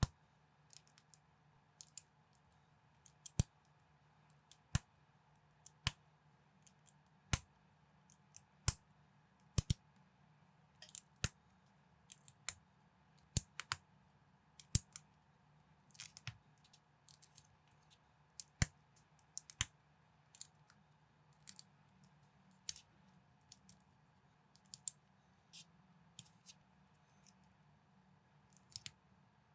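LEGO-compatible plastic building bricks clicking and snapping together as they are assembled by hand: sharp, irregular clicks, about one or two a second, over a faint low hum.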